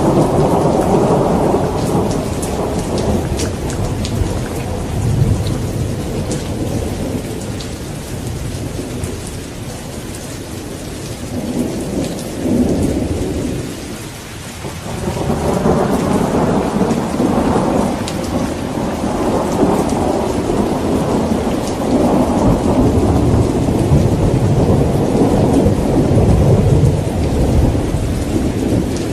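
Steady rain pattering with rolling thunder. A long roll of thunder dies away over the first half, and another builds up again about halfway through.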